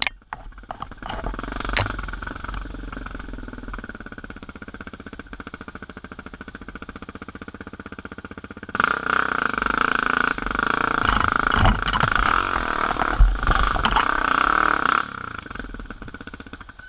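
Dirt bike engine running, then about nine seconds in revving hard for several seconds, its pitch rising and falling, before dropping back to a lower, steady run.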